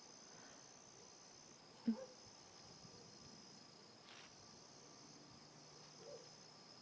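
Faint, steady chirping of crickets, with a single brief thump about two seconds in.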